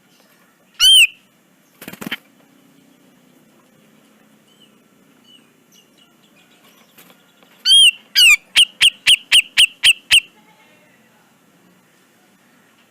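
Grey-cheeked bulbul (cucak jenggot) calling: one loud whistled note about a second in and a short harsh rasp, then about eight seconds in a fast run of about ten sharp repeated notes, about four a second.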